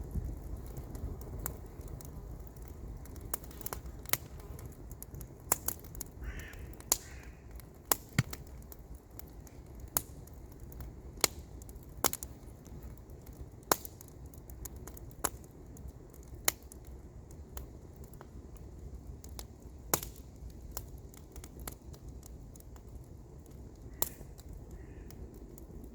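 Wood campfire crackling, with sharp single pops every second or so over a low steady rumble. A bird calls briefly twice, a few seconds in and again near the end.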